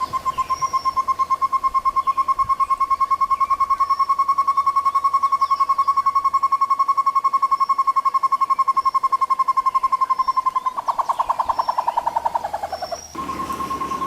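Short-tailed antthrush calling: a long, fast series of hollow, bell-like notes, about ten a second at a steady pitch. Near the end the notes speed up and fall in pitch, then stop, and a new series begins just after.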